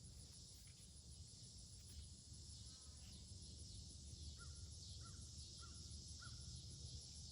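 Near silence: faint outdoor ambience with a steady high insect drone, and four short faint bird calls evenly spaced in the second half.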